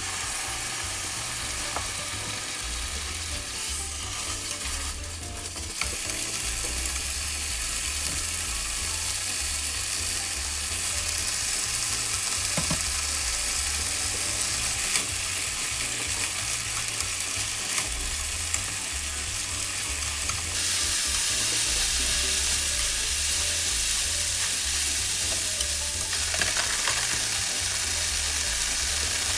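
Food sizzling in a frying pan as it is stir-fried, a steady hiss that grows louder about twenty seconds in, with a low hum underneath.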